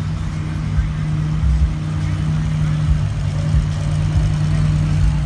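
Truck engines running steadily with a low, even drone.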